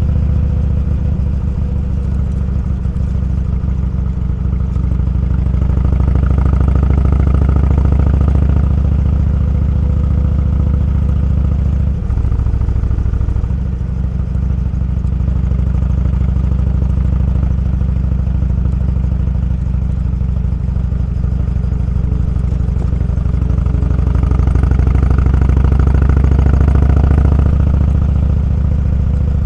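Motorcycle engine running steadily while riding, with a short change in engine note about twelve seconds in and the engine pulling harder twice.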